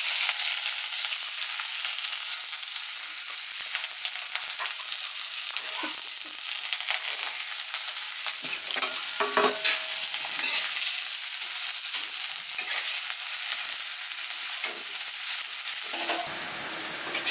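Sliced onions and green chillies sizzling hard in hot oil in a steel karahi, with a metal spatula scraping and knocking against the pan as they are stirred. The sizzle dies down near the end.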